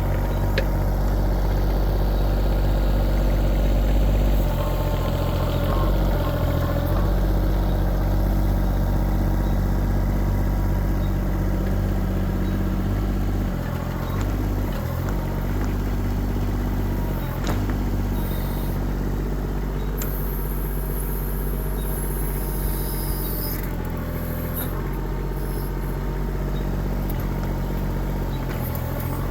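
The Kubota diesel engine of a 1.6-ton mini excavator runs steadily, its pitch stepping down and back up a few times. A high hiss comes in around two-thirds of the way through.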